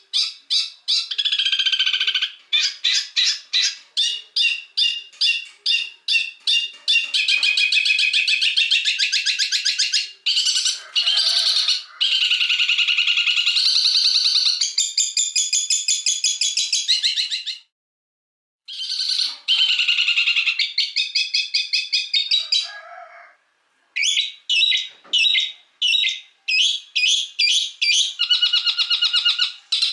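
Recorded songbird song, spliced from several clips: fast runs of repeated high chirps and rolling trills. It stops abruptly twice, with short silent gaps about 18 and 23 seconds in.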